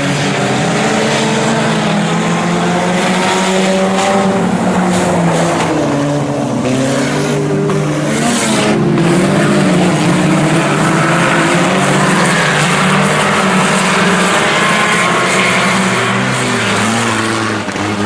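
A field of IMCA Sport Compact race cars running laps, several engines revving up and down at once as the cars go round.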